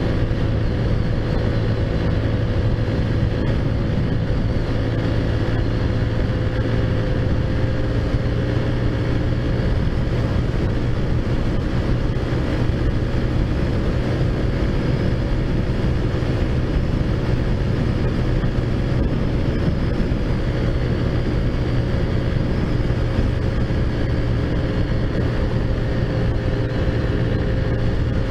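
Taotao Zummer's 50cc four-stroke engine running steadily at an even cruising speed while ridden, its pitch barely changing, over constant road and wind noise.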